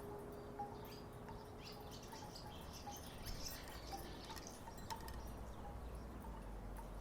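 Wooden wind chimes knocking together faintly, with short hollow tones at an irregular pace of about one to two knocks a second.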